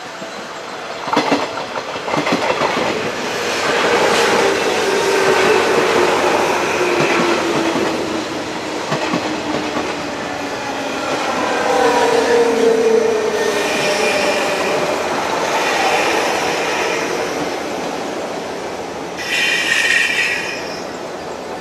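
JR West 201 series electric train running past close by: wheels clacking over the rail joints under a steady rumble, with traction-motor whine sliding down in pitch as the cars go by. A brief high squeal comes near the end as the last cars pass.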